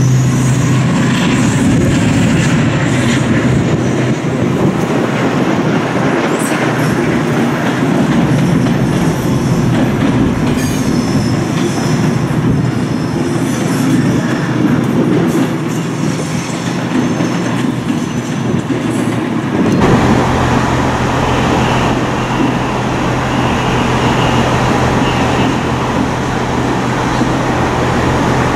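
Diesel train running through the station, its wheels rumbling with brief high-pitched wheel squeals. About twenty seconds in the sound changes abruptly to a diesel engine idling with a steady low hum.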